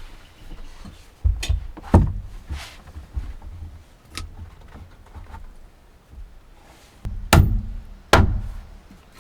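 Irregular heavy thuds and knocks on wood, about six in all, the loudest coming in pairs between one and two seconds in and again near the end.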